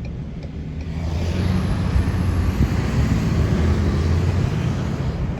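Road traffic on an interstate heard from a car: a steady low engine hum, with a rush of tyre and road noise that swells about a second in, as a vehicle goes by, and then eases off.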